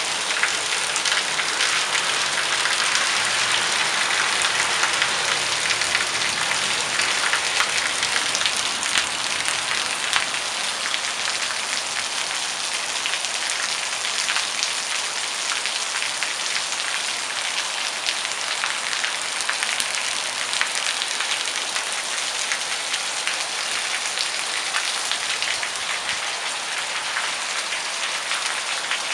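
Steady rain falling, a dense hiss with many individual drops ticking through it.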